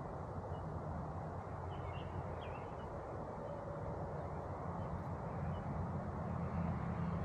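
Honey bees buzzing en masse, a steady low hum that swells a little near the end, with a few faint bird chirps about two seconds in.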